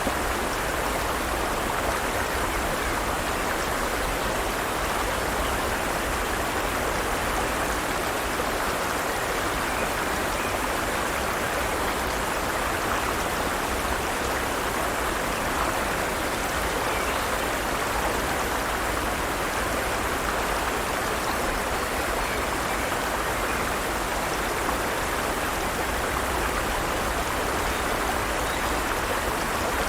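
Forest stream flowing: a steady rush of running water over rocks.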